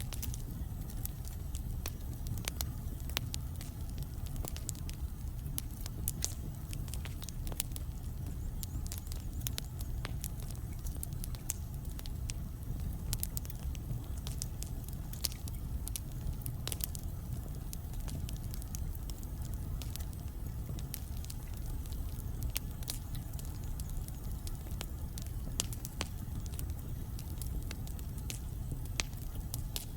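Wood fire burning in a fireplace: logs crackling with frequent sharp pops over a steady low rumble of the flames.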